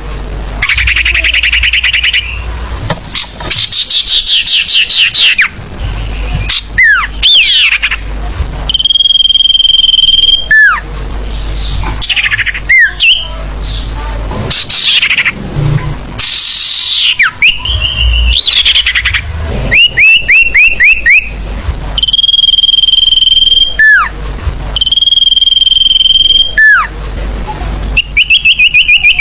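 Looped sirfu bird lure-call recording (suara pikat): loud, high chirps and rapid chirp series, interrupted again and again by a held whistle that ends in a falling glide, in abruptly cut, repeating segments.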